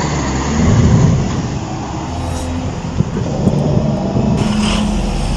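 Truck engine running steadily, briefly louder about a second in.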